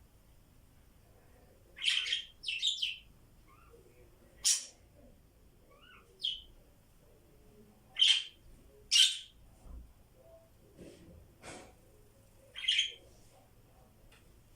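Pet budgies chirping: about seven short, separate high chirps spaced irregularly, some in quick pairs.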